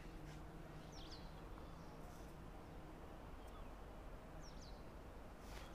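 Quiet outdoor ambience with a faint low hum, and short bird chirps twice: about a second in and again a little after four seconds.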